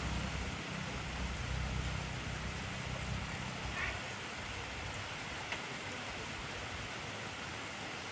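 Heavy, steady rain hissing, with a low rumble underneath that fades out about halfway through and a few faint drip ticks.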